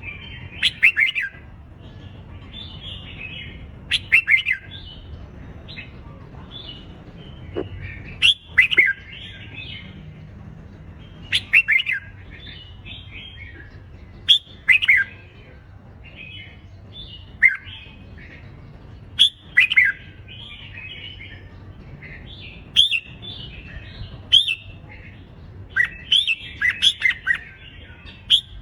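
Red-whiskered bulbuls giving loud competitive song: short, quick whistled phrases with sharp bending notes, repeated every two to three seconds, with overlapping phrases near the end.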